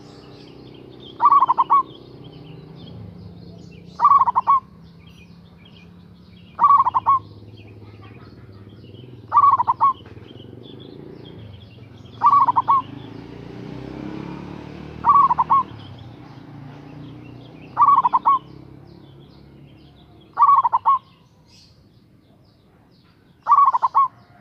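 Zebra dove (local Javanese perkutut) cooing its song over and over: nine short calls of a few quick notes each, evenly spaced about every two and three-quarter seconds. Faint high chirping between the calls.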